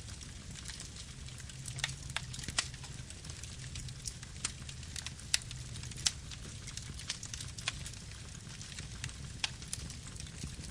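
Campfire burning: a steady low rumble of flame with irregular sharp crackles and pops from the burning wood.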